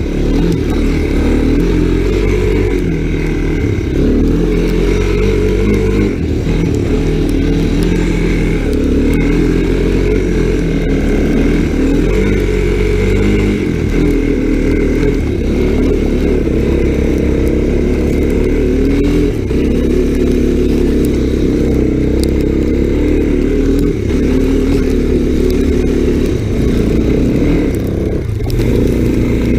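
Honda ATC 250SX three-wheeler's single-cylinder engine running under way, its speed rising and falling with the throttle.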